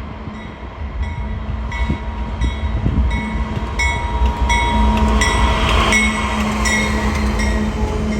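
A train passing close by with a steady low engine rumble that grows louder after the first few seconds. A ringing tone repeats about every three-quarters of a second over it.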